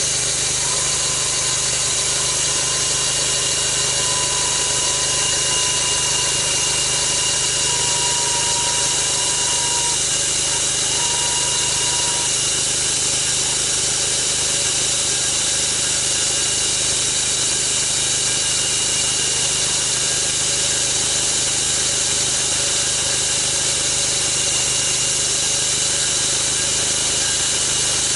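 An engine-driven log-milling saw running steadily at full speed as it cuts lengthwise through a big log.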